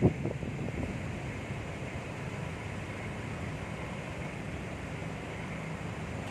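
Steady low rumble of a ferry's engines, with wind buffeting the microphone; a short knock sounds right at the start.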